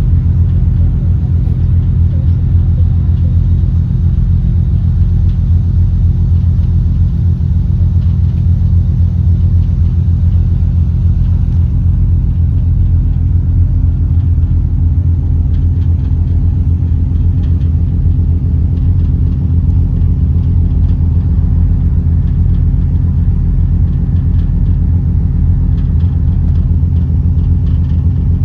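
An engine running steadily at constant speed: a loud, low drone that holds one pitch throughout.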